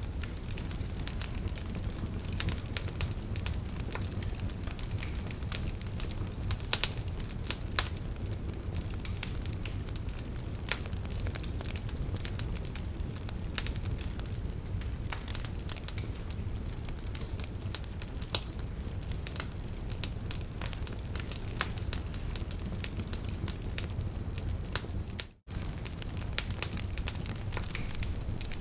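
Wood fire burning in a fireplace: a steady low rumble of flames with frequent sharp crackles and pops from the logs. The sound cuts out for an instant about 25 seconds in.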